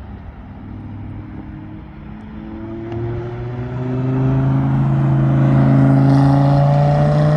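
A car engine accelerating as the car approaches along the track, its pitch rising slowly and growing louder to a peak about six seconds in.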